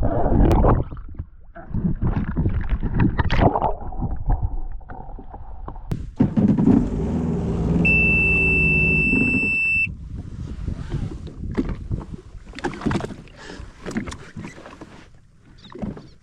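Sea-Doo jet ski in limp mode, its engine running at reduced power amid irregular water splashing and wind buffeting. Near the middle a single high steady beep sounds for about two seconds.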